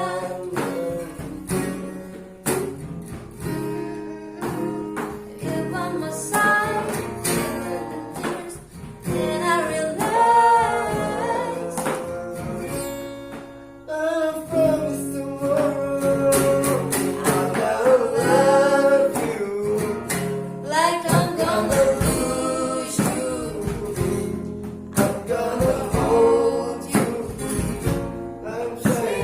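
A woman singing a slow cover song, accompanied by acoustic guitar.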